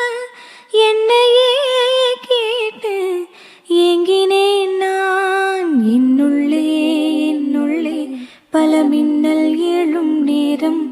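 Music from a Tamil song: a female voice singing a wordless melody in long held, wavering notes, with short breaks between phrases.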